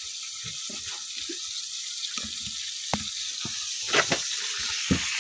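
Tomatoes frying in a pot over a wood fire, a steady hiss of sizzling, with irregular low knocks and a few sharper clicks.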